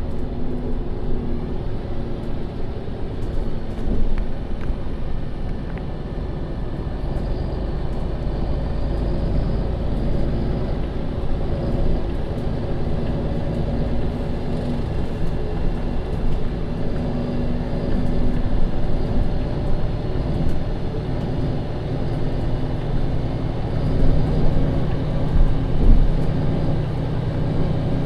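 MAN Lion's City NL 283 city bus's Euro 6 diesel engine running with a steady low drone, getting somewhat fuller and louder in the last few seconds.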